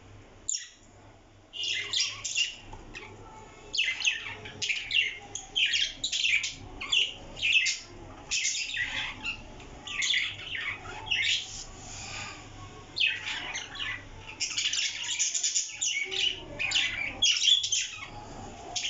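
A parrot squawking in a run of short, loud calls, starting about a second and a half in, with a brief pause midway.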